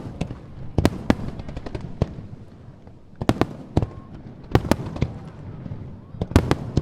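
Starmine fireworks bursting in quick succession: sharp bangs in clusters, each with a rolling echo, over a steady low rumble and crackle of shells going off.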